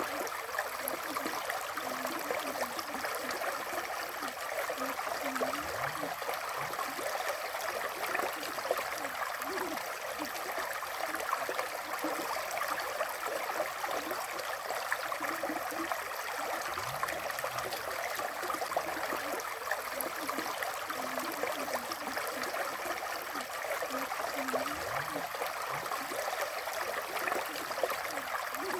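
River water flowing steadily, a continuous rushing and gurgling of the stream.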